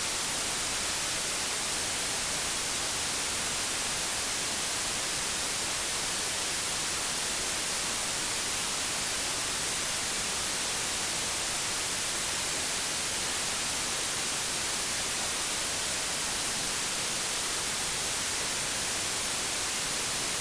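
Steady electronic white noise: an even hiss that does not change in level, brightest in the high end.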